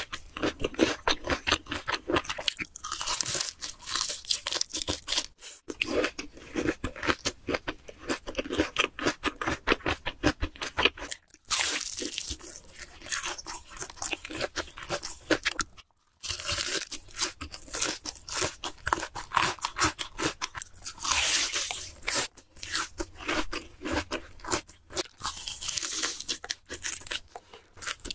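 Close-miked crunching and chewing of crispy deep-fried breaded shrimp and battered fish: dense crackly bites and chews that cut out briefly three times.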